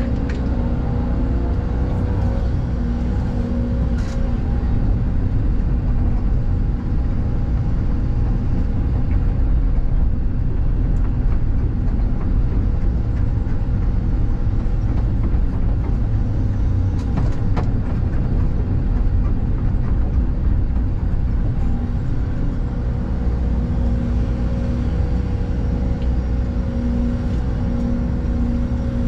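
Excavator's diesel engine and hydraulics running steadily under work, with a steady whine, and a couple of sharp knocks about four seconds in and again in the middle.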